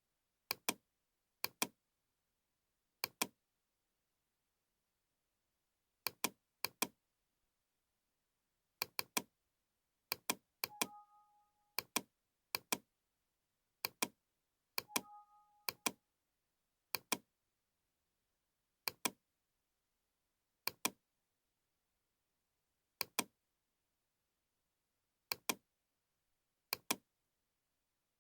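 Computer mouse clicks, mostly in quick double-click pairs, spaced irregularly over dead silence. A short two-note computer alert chime sounds twice, about eleven and fifteen seconds in.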